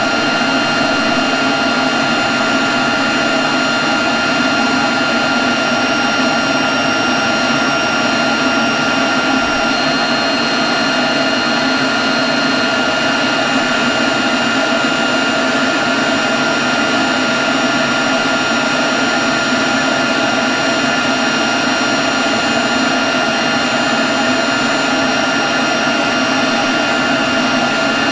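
Leaf blower running steadily at a constant speed: a steady high whine over a dense rushing noise, with no change in speed.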